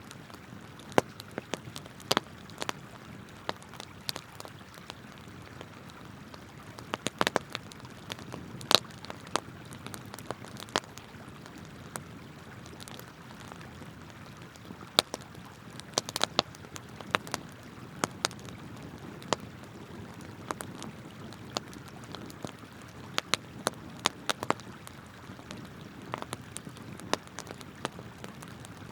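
Wood campfire crackling, with sharp irregular pops, some in quick clusters, over the steady rush of flowing river water.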